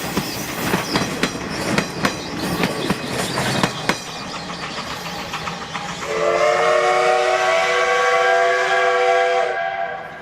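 Steam locomotive C12 66 and its train running, wheels clacking rapidly over the rail joints. About six seconds in, the locomotive's steam whistle gives one long blast of several tones at once, the loudest sound here, which cuts off sharply near the end.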